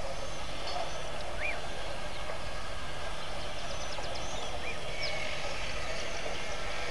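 Wild birds calling with a few short, thin whistled notes, scattered through a steady rushing hiss.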